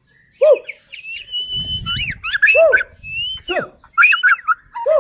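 White-rumped shama (murai batu) singing a fast, varied song of whistles and swooping notes, with one long held whistle near the middle.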